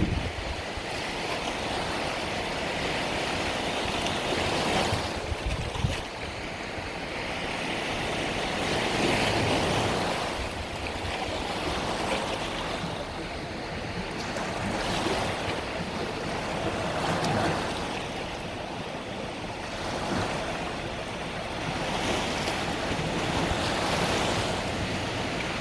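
Mediterranean sea waves breaking and washing up on a beach, the surf swelling and easing every few seconds, with some wind on the microphone.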